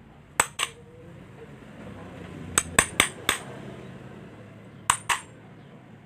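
Sharp, hard clicks with a brief ring: a pair early on, a quick run of four around the middle, and another pair near the end.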